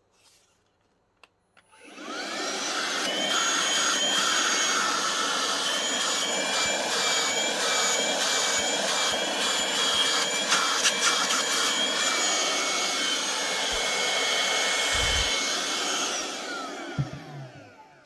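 Bosch YOUseries handheld cordless vacuum cleaner switched on about two seconds in, its motor rising to speed with a high whine, running steadily, then switched off and winding down near the end. A few low knocks just before it stops.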